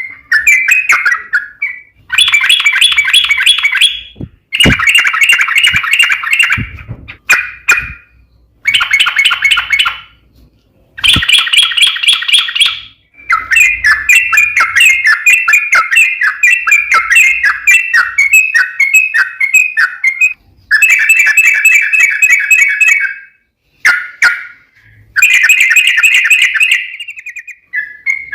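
Yellow-vented bulbul (trucuk) singing long, rapid chattering phrases of repeated bubbly notes, phrase after phrase with short pauses between. This is the 'ropel panjang' long rolling song used as a lure to set other trucuk singing.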